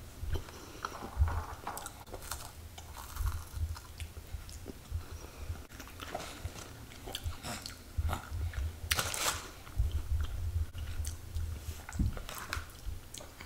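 Close-up chewing and crunching of crunchy chocolate, with scattered crackles and one sharper crunch about nine seconds in.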